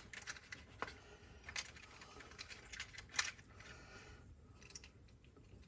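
Small plastic automotive blade fuses being handled: scattered light clicks and rattles as they are picked out of a fuse container, the loudest click a little over three seconds in.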